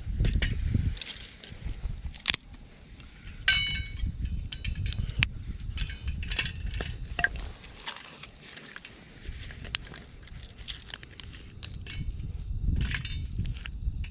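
Dry sticks and brush crunching and snapping as firewood is gathered and handled, irregular sharp cracks over a low rumble.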